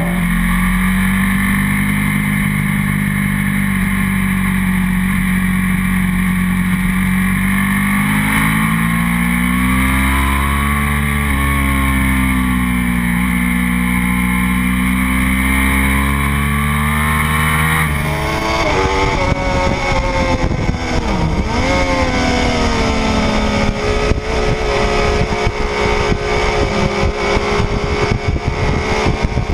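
Motorcycle engine running hard under a camera mounted on the bike, its pitch rising and falling with the throttle. About two-thirds of the way through, the sound changes abruptly to rougher wind rush over the engine, with quicker rises and drops in revs.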